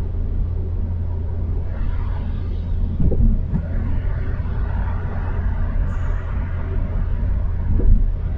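Steady low road rumble of a car on winter tires, heard inside the cabin, with the tires running through wet snow. There is a dull thump about three seconds in and another near the end.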